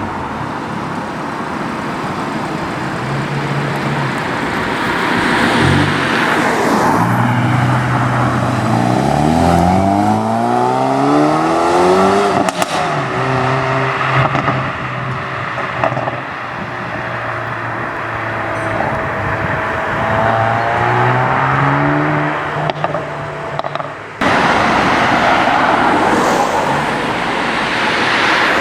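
Hyundai i30N turbocharged four-cylinder engines running and being revved, their note rising and falling several times, with a couple of sharp exhaust cracks midway. Near the end the sound jumps to a louder, rushing car drive-by under acceleration.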